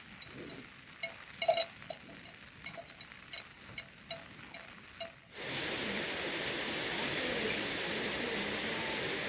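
An animal bell clanks irregularly for about five seconds, the loudest strike coming about a second and a half in. Then a steady hiss of heavy rain starts suddenly.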